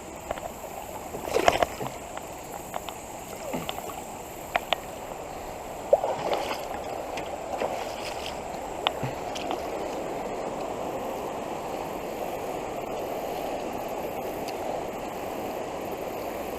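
Fast, flood-swollen creek water rushing steadily past a canoe. Scattered knocks and clicks in the first several seconds, then only the steady rush of water.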